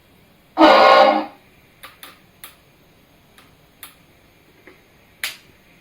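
Horn blast of about half a second from the electronic sound module of a 1:14 Tamiya Scania S770 RC truck, followed by about half a dozen faint, irregular clicks.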